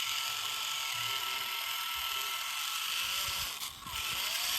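Small electric motor and gearbox of an RC toy tractor running with a steady high-pitched whine, dropping out briefly near the end before picking up again.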